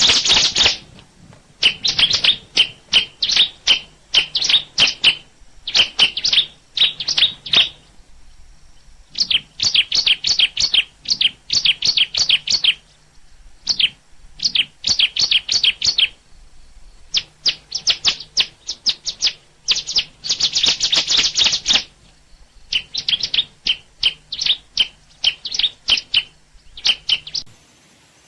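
A songbird chirping: rapid series of sharp, high chirps in bursts of one to three seconds, broken by short pauses.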